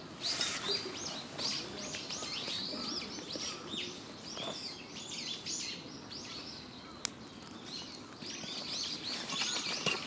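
Wild birds chirping and singing continuously, many short high notes overlapping, with one sharp click about seven seconds in.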